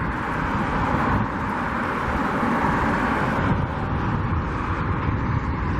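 Strong wind buffeting the microphone: a constant low rumble and hiss in gusts, easing slightly about three and a half seconds in.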